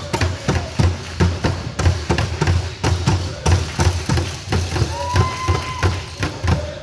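Dull thumps and knocks, several a second, with a short steady tone about five seconds in that lasts just under a second.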